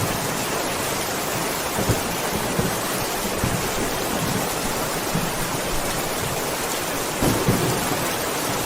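Steady heavy rain with a few short, low rumbles of thunder; the strongest comes about seven seconds in.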